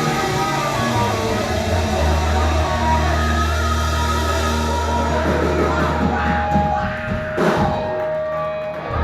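Band playing rock music with electric guitar, drums and bass, including a long held low bass note.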